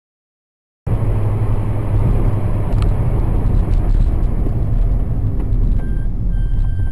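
Silence, then about a second in, the steady low rumble of a car's engine and road noise heard from inside a moving car begins, with a few faint clicks and a faint high tone near the end.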